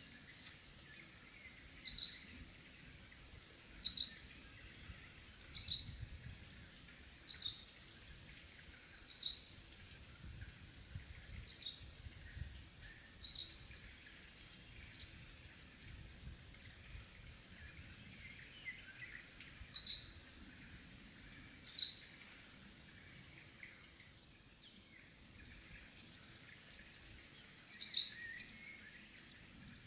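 A bird gives a short, high call over and over, about every two seconds with a couple of longer pauses. Behind it runs a steady, high insect drone of forest ambience.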